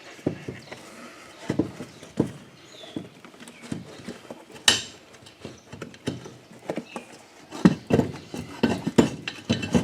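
Irregular knocks, taps and clatters from handling a lawn mower tire, inner tube and rim while the tube is worked into the tire. One sharp, louder knock comes about halfway through, and the knocks come thicker near the end.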